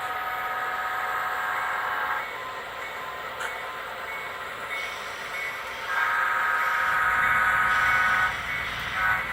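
Diesel locomotive air horn on EMD GP7 road-switchers sounding long blasts, one at the start and one about six seconds in, then a short blast near the end. Under them the locomotives' engines and the train rumble, growing louder about six seconds in as the train draws closer.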